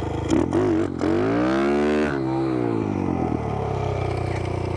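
Small single-cylinder pit bike engine revving: the pitch climbs to a peak about a second and a half in and drops back, then runs steadier at lower revs.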